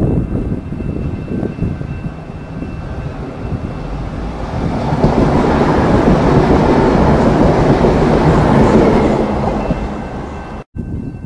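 V/Line VLocity diesel multiple unit passing through the station: engine and wheels on the rails growing louder, loudest as the carriages go by, then fading away. The sound cuts off suddenly near the end.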